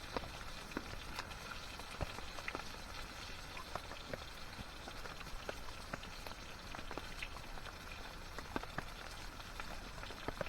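Steady rain falling, with scattered sharp drops tapping at irregular intervals.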